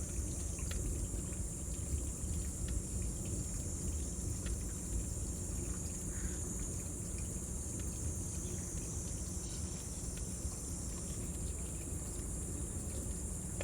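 Cicadas buzzing in a steady high chorus over a crackling bonfire, with scattered sharp pops and a low rumble from the fire.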